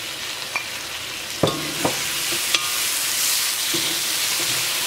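Onion-tomato masala sizzling in hot oil in a wok while a metal perforated spoon stirs it. The spoon scrapes and clicks sharply against the pan a few times over the steady frying hiss.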